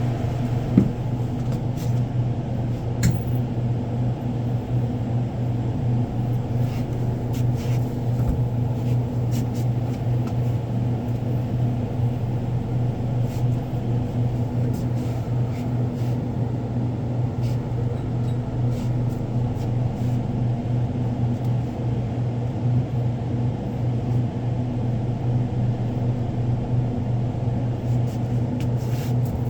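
Steady low machine hum with light clicks and knocks of handling now and then, the sharpest just under a second in.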